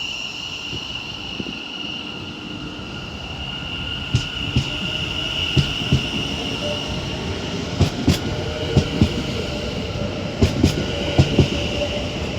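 Pair of Class 730 Aventra electric multiple units pulling out past the platform. The electric traction whine climbs in pitch as they gather speed, and from about four seconds in the wheels click over the rail joints more and more often.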